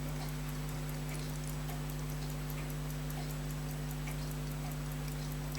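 Steady, fast ticking of a mechanical timepiece, about five ticks a second, over a low steady electrical hum.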